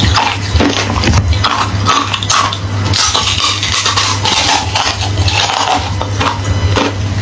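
Close-up crunching of hollow, refrozen ice being bitten and chewed: a fast, irregular run of crisp cracks and crunches over a steady low hum.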